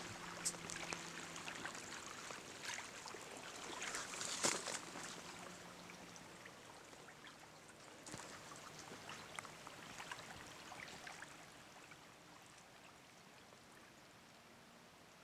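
Water trickling and lapping against a kayak hull, with small splashes and drips, most active in the first few seconds and fading away over the last few.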